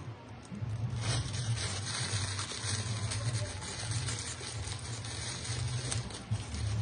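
Steady rustling handling noise with fine crackles and a low rumble underneath, starting about a second in, as the shoes and their box are handled.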